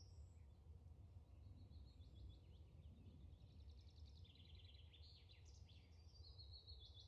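Near silence with faint bird chirps, quick runs of repeated notes, over a low steady hum.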